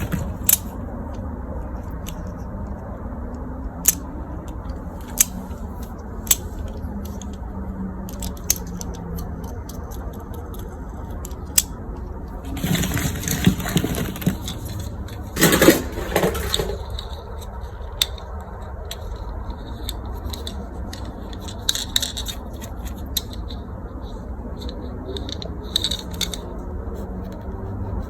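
Scattered sharp clicks and knocks of small hard objects being handled, over a steady low hum, with two longer scraping, rustling bursts about 13 and 16 seconds in.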